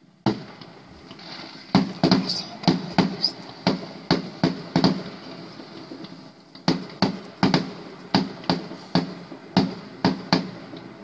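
Aerial fireworks bursting overhead. A single bang comes first, then two rapid runs of sharp reports at about three a second, with a short pause between them.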